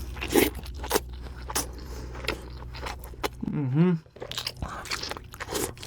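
Close-miked biting and chewing of a burger, with many short crisp crunches. A brief vocal sound comes about three and a half seconds in.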